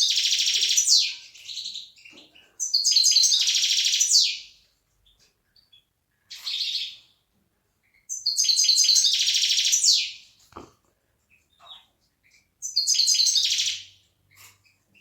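Excited European goldfinch singing: four bursts of rapid twittering song, each about one and a half seconds long, separated by pauses of a few seconds.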